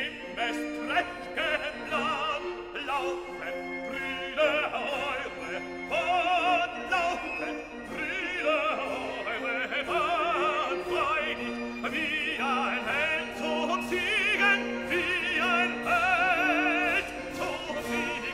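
Classical operatic singing: a high voice holding long notes with wide vibrato over sustained instrumental accompaniment.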